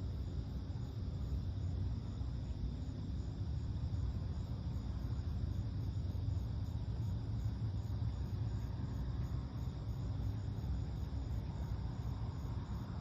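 Insects chirping steadily in even, rapid pulses over a constant low rumble of distant road traffic.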